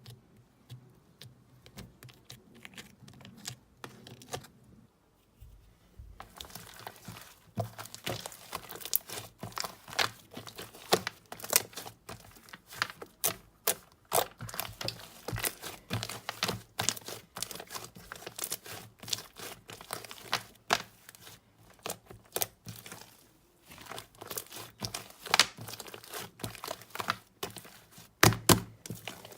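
Slime being played with by hand, giving a run of crackling clicks and small pops. They are sparse at first, come thick and fast from about six seconds in, and include a couple of louder pops near the end.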